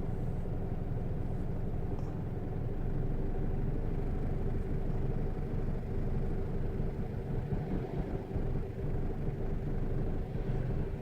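Isuzu D-Max 3.0-litre diesel engine idling steadily while the fault codes are cleared after a speed-sensor replacement.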